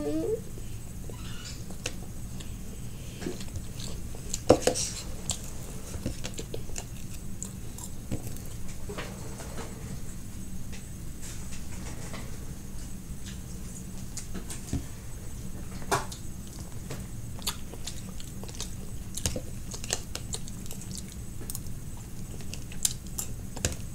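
A person chewing California roll sushi close to the microphone. Scattered small clicks and taps run through it, the sharpest about four and a half seconds and sixteen seconds in, over a steady low hum.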